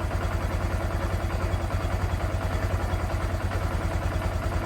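Honda Grom's single-cylinder four-stroke engine idling with a steady, even beat. The idle is stable.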